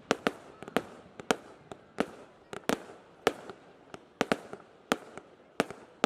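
Fireworks going off in a rapid series of sharp bangs, about two a second, each followed by a brief fading echo.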